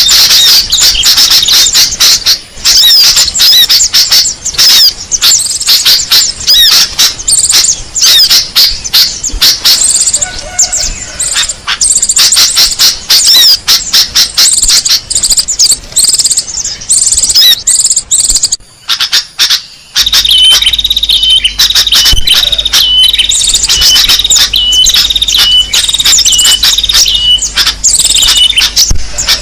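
Dense, rapid high-pitched chirping of small songbirds, a bird-lure (pikat) call recording. After a brief break about two-thirds of the way through, a short clipped note repeats over and over above continuing chirps.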